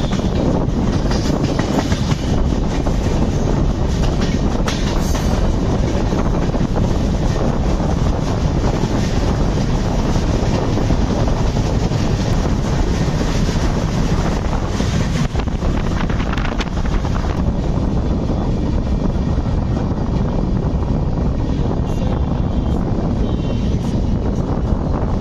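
Indian Railways express passenger train running at speed, heard from an open coach door: a steady rumble of wheels on the rails with some clickety-clack and wind on the microphone. The noise is brighter while the train runs beside a long line of goods wagons on the next track, and turns duller about 17 seconds in.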